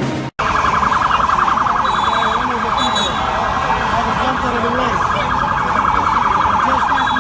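Emergency vehicle siren sounding in a fast, rapidly warbling yelp over street noise and voices. It starts just after a brief cut at the very beginning and stops just before the end.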